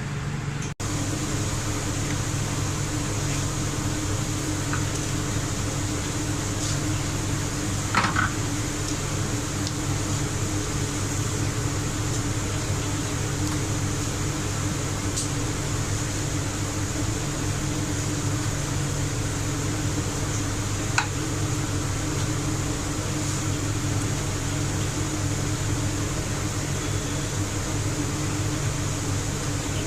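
A steady motor hum, with a short knock about eight seconds in and another about twenty-one seconds in.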